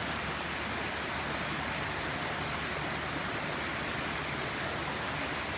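Natural waterfall rushing, a steady even roar of falling water.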